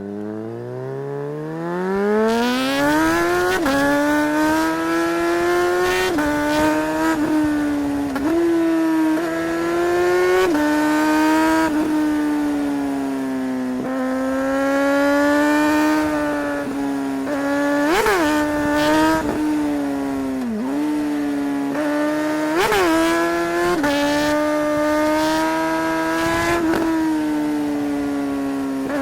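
Suzuki GSR 600's inline-four engine revving up hard over the first few seconds, then running at high revs with frequent brief dips in the engine note from quickshifter gear changes, and a couple of sharp rev spikes later on.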